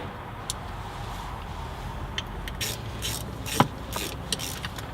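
Scattered light metallic clicks and scraping of hand tools and hardware as a T45 bolt is worked into the shifter linkage, with one sharper knock about three and a half seconds in.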